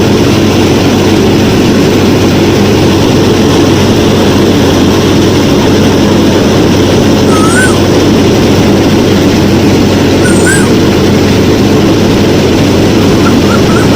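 Small electric motors of a DIY miniature combine harvester running with a steady, loud drone. A few short high chirps sound about halfway through and again near the end.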